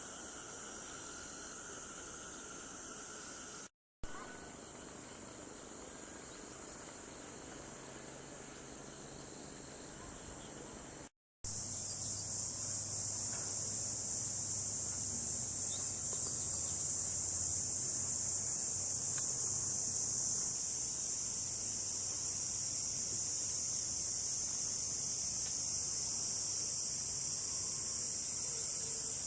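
Steady, high-pitched outdoor insect chorus, broken by two brief dropouts in the sound and much louder after the second one, about eleven seconds in, with a faint low hum beneath it from then on.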